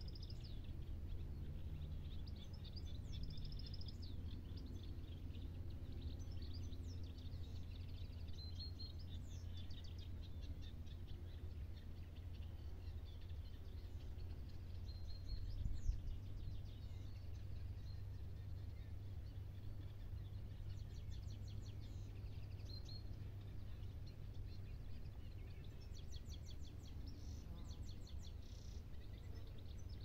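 Small birds chirping and calling, with a few rapid trills, over a steady low rumble. A single short knock stands out about halfway through.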